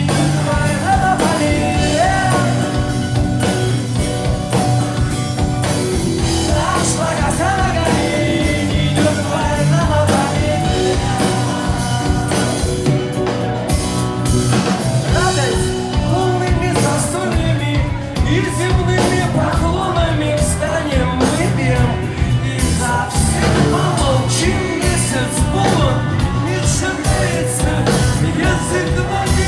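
Rock band playing live, with singing over the full band.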